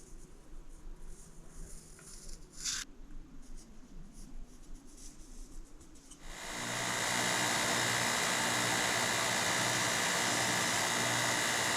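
A few faint knocks and clicks, then about six seconds in a motor-driven shop machine starts up and runs steadily: a loud rushing noise with a steady hum and a high whine.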